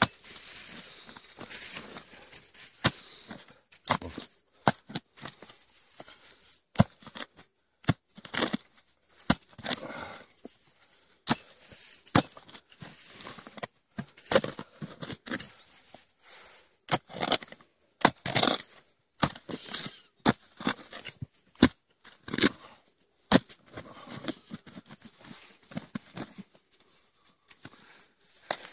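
Shovel digging out kudzu root: irregular sharp strikes of the blade into the soil, with short scraping between them.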